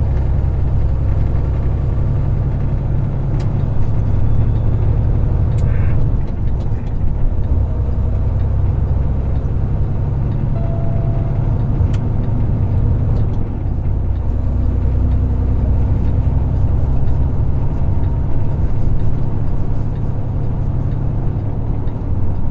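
Semi truck driving on the highway, heard from inside the cab: a steady, loud low drone of engine and road noise.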